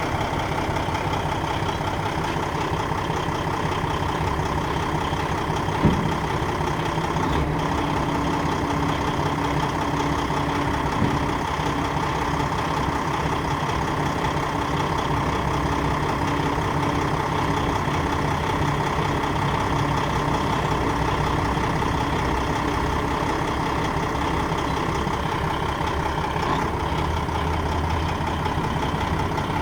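Paccar MX turbo diesel engine of a Peterbilt 365 dump truck idling steadily, with a single sharp click about six seconds in.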